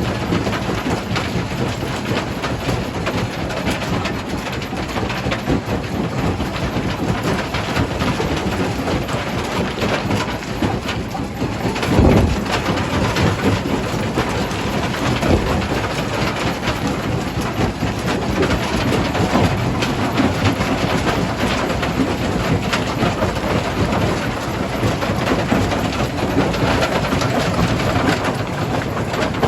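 Primary jaw crusher crushing stone: a continuous grinding rumble with dense clattering of rock. About twelve seconds in there is one heavy, low thud.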